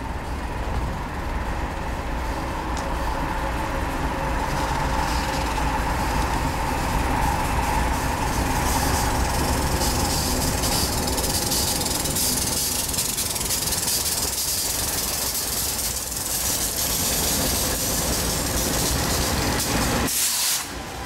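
BNSF freight train's diesel locomotives approaching and passing close by: a steady rumble grows louder, then a strong hiss of wheels on rail as the locomotives roll past. The sound drops off suddenly just before the end.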